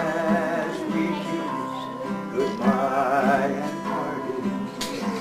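Acoustic guitar playing a slow country tune, with a wavering melody line carried over steady held notes.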